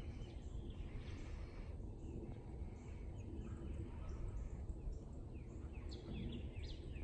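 Wild birds chirping and calling, with a quick string of short falling chirps near the end, over a steady low outdoor rumble.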